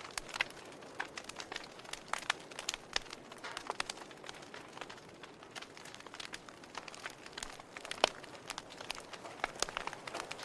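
Wood fire burning in a fireplace, crackling with irregular sharp pops and snaps over a soft steady hiss, one pop louder than the rest about eight seconds in.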